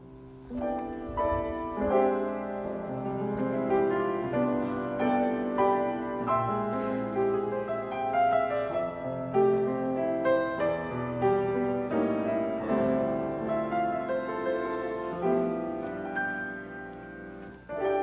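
Piano playing a slow piece of sustained chords and melody.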